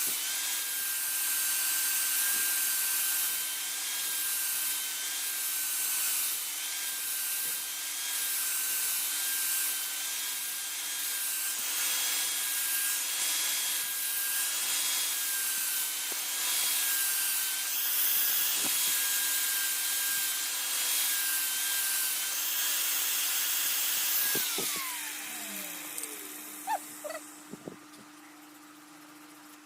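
Electric grinding tool running with a steady whine while its abrasive rasps against a workpiece in repeated strokes. It is switched off about 25 seconds in and its whine falls away as it spins down, followed by a few sharp knocks.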